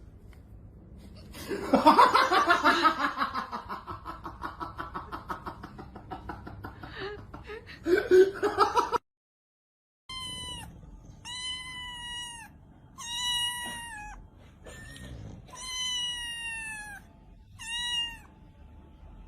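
A cat yowling in a long, wavering, pulsing call, then after a brief cut a cat meowing about six times, each meow around a second long and dipping in pitch at its end.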